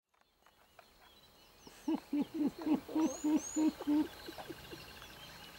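A bird calling a series of about eight low hoots, evenly spaced at about three a second, then trailing off in a few fainter notes, with faint high chirps from other birds.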